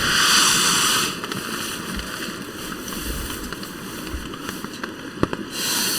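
Steady hiss of rain on the tent, with two louder spells of rustling, one at the start and one near the end, and a single sharp click about five seconds in.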